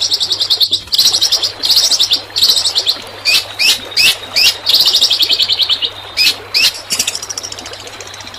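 Songbird singing rapid-fire 'tembakan' song from a bird-song tutor recording for training long-tailed shrikes: fast, high, rattling trills in bursts of about a second. Between the trills come short, sharp notes that sweep downward, several in quick succession about halfway through. A faint steady low hum runs underneath.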